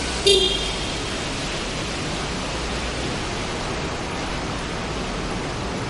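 Heavy rain falling in a steady, even hiss. A brief high-pitched squeak or chirp cuts through about a third of a second in.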